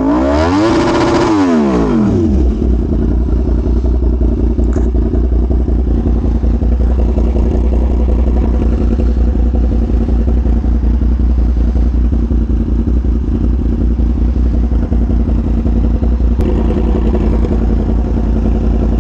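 Yamaha R1M's crossplane inline-four engine blipped once, pitch rising and falling back over about two seconds, then idling steadily.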